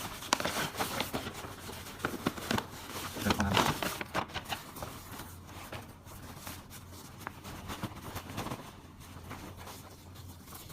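Rustling, crinkling and tearing of parcel packaging being opened by hand, with scattered small clicks and scrapes.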